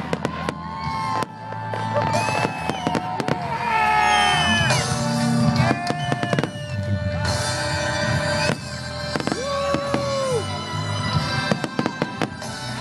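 Fireworks exploding in a rapid, continuous barrage of bangs and crackles, with pitched tones alongside.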